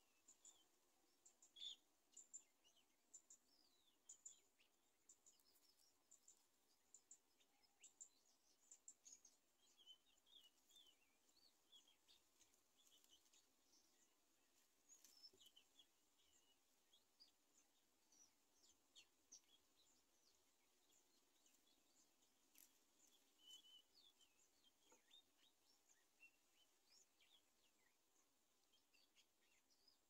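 Faint bird chirps: many short, high calls scattered all through, over a soft background hiss.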